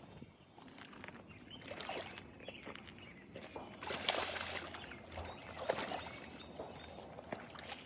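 Outdoor scuffling and swishing noises with clicks, swelling and fading several times, and a bird giving a quick run of about five high, falling chirps a little past the middle.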